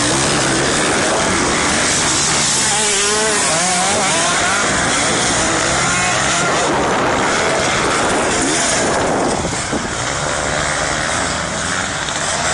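Motocross dirt bikes running on the track, with engines revving up and down in a loud, continuous din. The noise eases slightly about nine seconds in.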